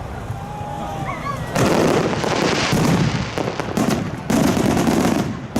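Fireworks going off in a dense volley of bangs and crackling, starting about a second and a half in, with a fresh burst near the end.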